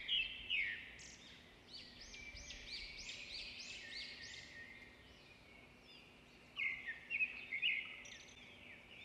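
Small birds chirping in a run of short, quick calls, with a louder flurry of chirps a little before the end.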